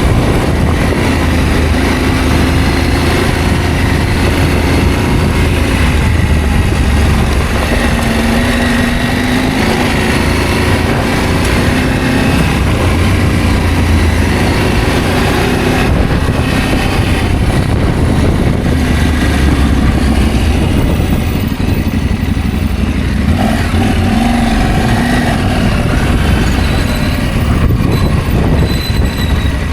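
Adventure motorcycle engine running while riding, its note rising and falling with the throttle, over a steady low rumble.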